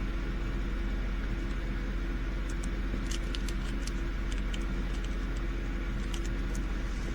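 Steady low background hum, with a few faint light clicks and rattles around three seconds in and again near six seconds, from small plastic bags of diamond-painting resin drills being handled.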